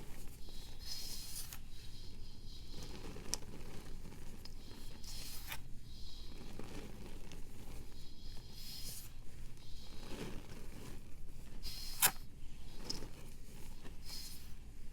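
Pressed powder blocks being crumbled: a series of short, dry crunching and scraping crackles, one every second or so, with a sharp snap about twelve seconds in.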